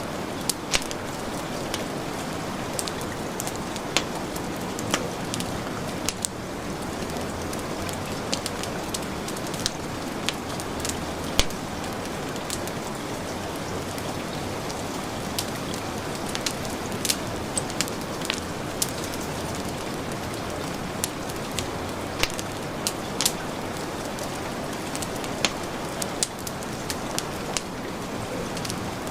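Steady heavy rain hiss mixed with a wood fire crackling, with sharp irregular pops scattered throughout.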